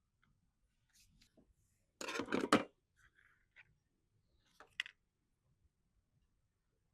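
Small handling sounds: scattered light clicks and taps, with a short rustling burst about two seconds in and a couple of sharper clicks near the middle.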